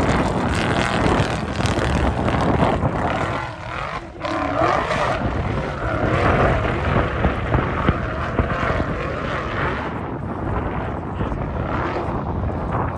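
Off-road race vehicle engine revving up and down as it climbs, mixed with wind buffeting the microphone; the sound dips briefly about four seconds in.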